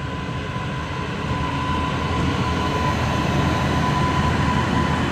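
Indian Railways electric locomotive hauling a passenger train past, its wheels rumbling on the rails and growing louder, with one steady high whine running through it.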